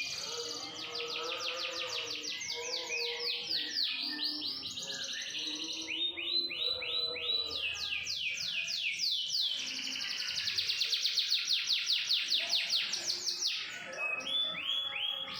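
Domestic canary singing: long trilled rolls of rapidly repeated, downward-sweeping high notes, switching from one rolled phrase to another several times.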